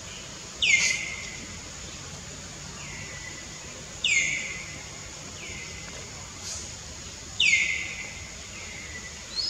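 A bird calling three times, about three seconds apart: each call starts sharply and slides down in pitch, and a fainter call of the same shape follows each one. Steady forest background noise runs underneath.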